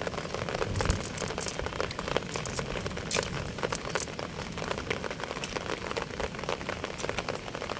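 Rain falling steadily, with many small scattered ticks of drops, and light rustling as a wet fishing net is picked over by hand.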